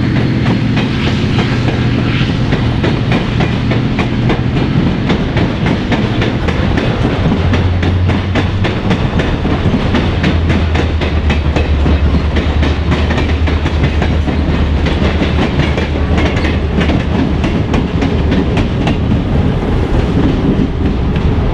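Passenger train running on the rails: wheels click steadily over the track under a continuous low drone.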